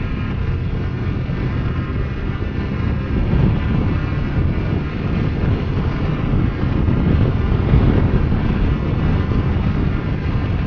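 Motorcycle engine running steadily while riding, with wind and road noise mixed in.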